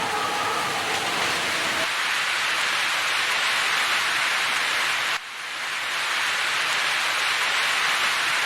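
Heavy rain falling in a steady, even hiss. A few steady tones sound under it for the first two seconds. A little past halfway the rain drops away suddenly and swells back in.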